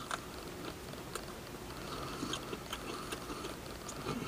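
A person biting into and chewing a mouthful of crispy breaded fried chicken strips, with scattered small mouth clicks.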